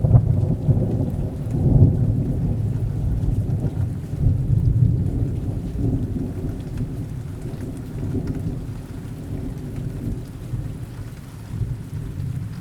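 Rain with a long roll of thunder: a sudden crack at the start, then a deep rumble that swells a couple of times and slowly fades over about ten seconds.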